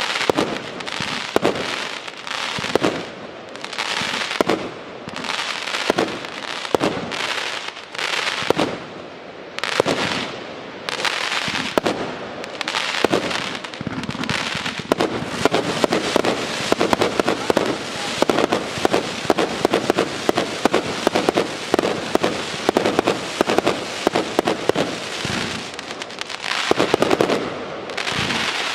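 144-shot, 1-inch (26 mm) consumer firework cake firing shot after shot. The shots come about one a second at first, then much faster and denser from about halfway.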